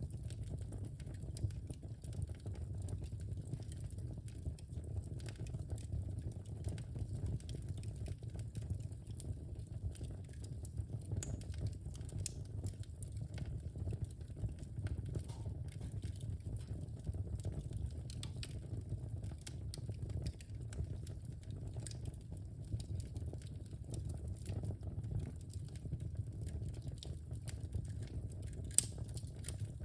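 Wood fire burning in a fireplace: a steady low rumble of flames with scattered small crackles and pops throughout, and one sharper snap near the end.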